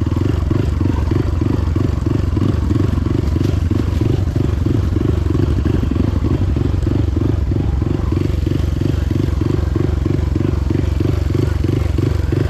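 Motorcycle engine running steadily, with a regular low throb about three times a second.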